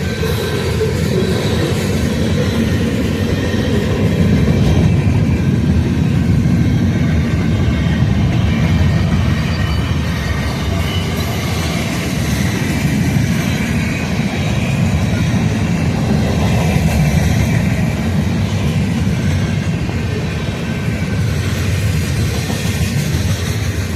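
Manifest freight train rolling past, a steady loud rumble of steel wheels on rail.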